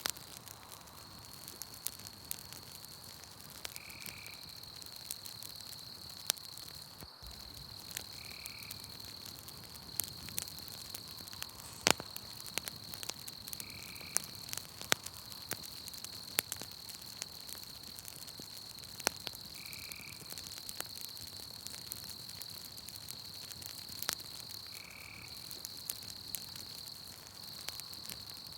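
Campfire crackling with irregular sharp pops, a few of them loud, over a continuous high insect trill, with a short call recurring about every five seconds.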